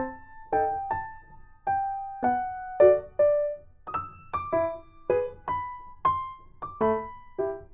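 Background piano music: single notes played one after another, about two or three a second, each ringing and fading.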